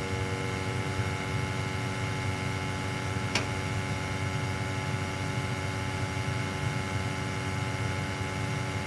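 Lochinvar gas boiler running, a steady hum with several even tones, firing with an open draft hood. A single short click about three and a half seconds in.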